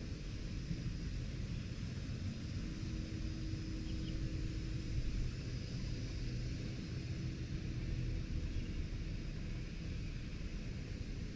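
Steady low outdoor background rumble with a faint hum.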